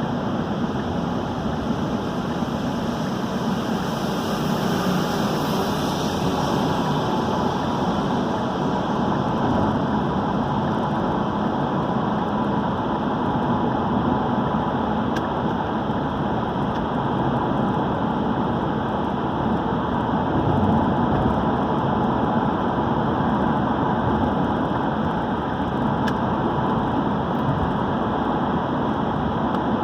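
Steady road noise of a car driving in heavy rain: tyres hissing on the wet road and rain on the car over the low hum of the engine. A louder hiss swells and fades a few seconds in.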